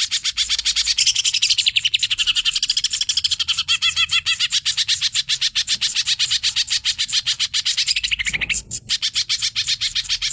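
Green leafbird (cucak ijo) singing nonstop in a fast, energetic chatter of rapidly repeated notes, about ten a second, with a brief break about eight seconds in.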